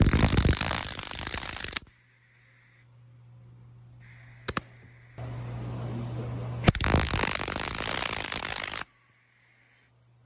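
MIG welder arc crackling while laying silicon bronze wire, in two short runs of about two seconds each. Between them come a couple of sharp clicks and a quieter steady hiss.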